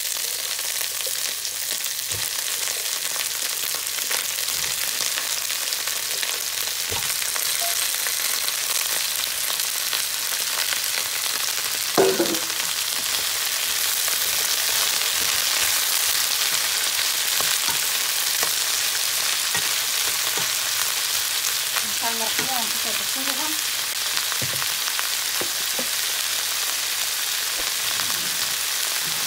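Broccoli sizzling in hot oil in a nonstick wok, with a steady hiss, stirred with a wooden spatula that knocks lightly against the pan now and then. One louder knock comes about twelve seconds in.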